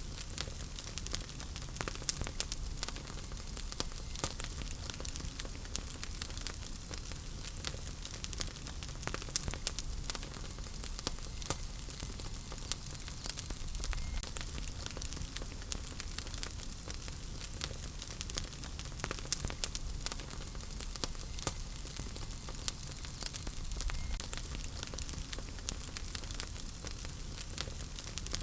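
Wood fire burning in a fireplace: a steady hiss and low rumble with frequent sharp, irregular crackles and pops.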